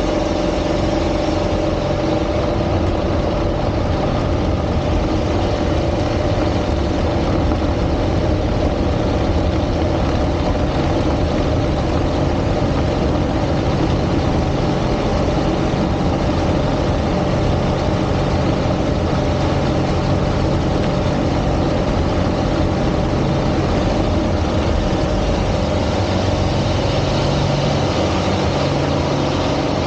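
Aerobatic plane's piston engine and propeller running steadily, at an even pitch throughout.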